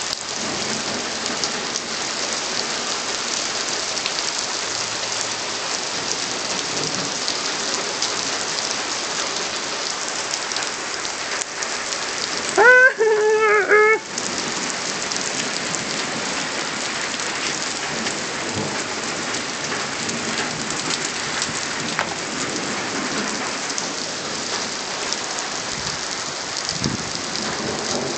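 Heavy rain falling steadily, a dense even hiss. About thirteen seconds in, a loud, wavering high-pitched cry lasting just over a second cuts through the rain.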